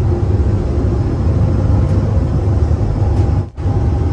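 Airliner cabin noise: a loud, steady low rumble of the engines and airflow, with a faint steady hum above it. It drops out briefly about three and a half seconds in.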